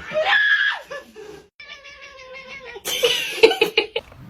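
A cat meowing, loudest in the first second, with a burst of sharp knocks near the end.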